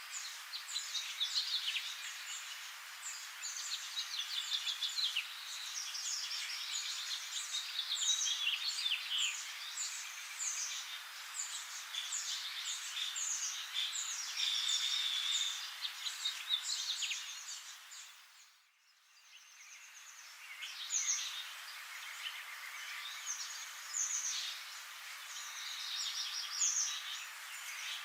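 Many small birds chirping and twittering together in a dense chorus of quick high calls. It briefly fades out about two-thirds of the way through, then comes back.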